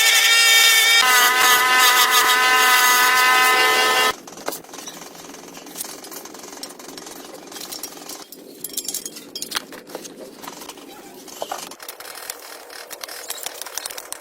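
A high-speed power tool whines steadily for about four seconds, then cuts off suddenly. Light clicks, taps and scraping of hand work on metal parts follow.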